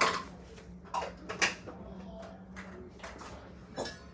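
Four short clicks and knocks of small objects being handled, the loudest about one and a half seconds in, over a faint steady hum.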